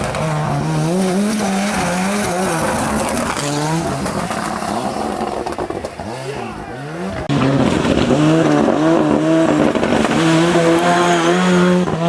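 Ford Sierra Cosworth rally car's turbocharged four-cylinder engine revving hard, its pitch rising and dropping through gear changes. About halfway through it fades and sweeps past, then cuts suddenly to a louder stretch at high revs.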